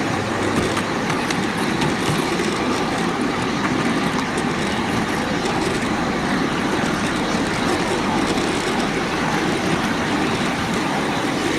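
Steady running noise of a 7¼-inch gauge miniature railway train, heard from onboard.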